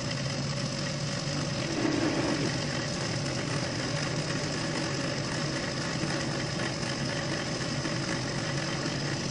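Metal lathe running steadily, driving a 4 mm carbide end mill to mill out a hole in a steel tool head: an even machine hum with a few held tones and no change in pace.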